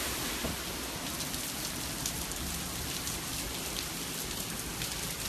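Hurricane rain falling steadily, a continuous hiss with scattered drop ticks.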